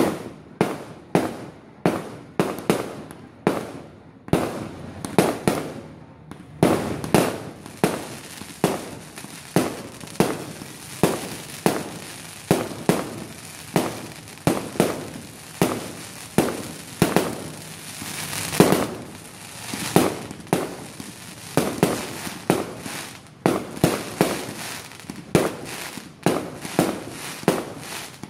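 Fireworks being launched and bursting in rapid succession, about two sharp bangs a second, with a denser crackling haze behind the bangs from about six seconds in.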